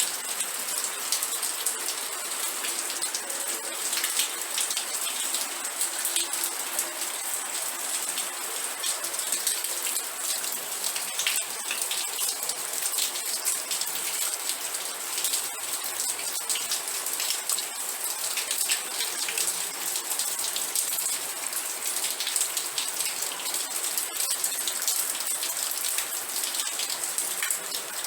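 Steady rain, falling in dense pattering drops with a bright hiss and no thunder.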